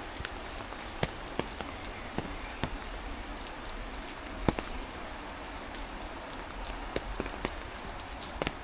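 Heavy rain falling steadily, with irregular sharp taps of drops landing close by; one tap about halfway through is louder than the rest.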